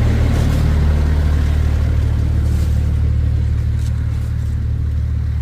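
Car engine running steadily, a low hum with no change in pitch that fades slightly toward the end.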